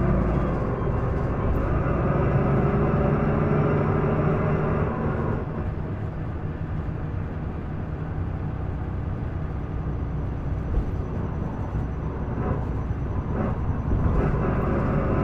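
Isuzu Erga city bus's diesel engine heard from inside the cabin. It pulls hard for the first five seconds or so, eases off to a lower, quieter running, then picks up again near the end.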